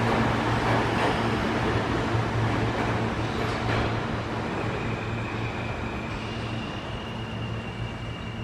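An R160A subway train pulling out of an underground station, its rumble slowly fading as it moves away. A steady low hum runs underneath, and a faint high whine comes in about halfway through.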